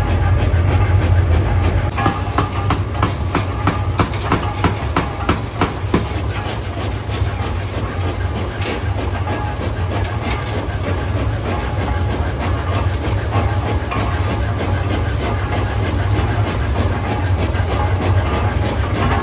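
Forging-shop machinery running with a steady low hum, and a quick run of sharp knocks and clicks from about two to six seconds in.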